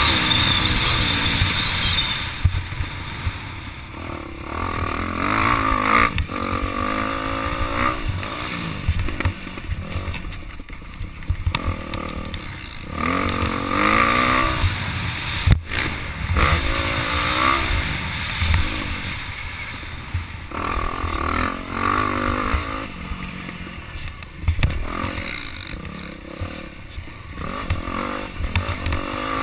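Motocross dirt bike engines revving up and down, the pitch rising and falling with each throttle blip and shift as bikes come closer and move away. A single sharp click about halfway through.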